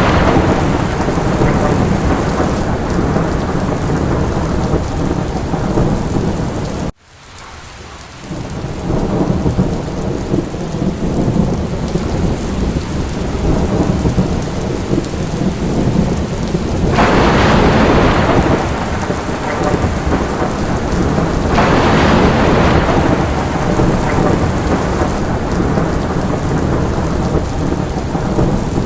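Steady heavy rain with low thunder rumbling beneath it, swelling louder twice in the second half. The sound drops out abruptly for a moment about seven seconds in, then resumes.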